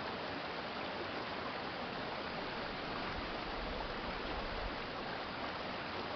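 Urban stream water flowing steadily, an even rushing sound. A faint low rumble rises under it a little after halfway and fades again.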